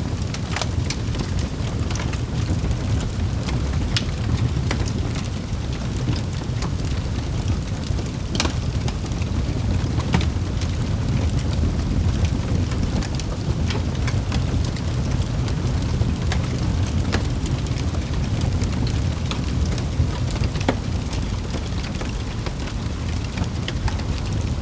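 Wood fire crackling in a fireplace: a steady low rumble of flame with irregular sharp pops and snaps scattered through it, a few of them louder.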